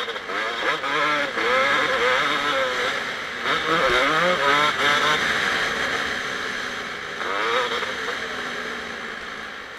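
Single-cylinder two-stroke engine of a 2007 Kawasaki KX250 motocross bike revving hard and dropping back again and again as the throttle is worked through the gears. It eases off and gets quieter near the end.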